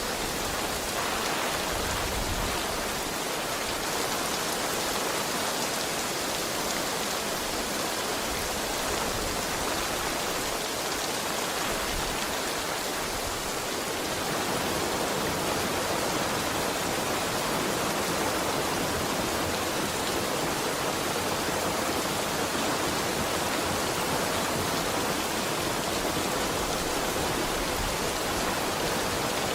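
Steady heavy rain, a dense even hiss of falling water.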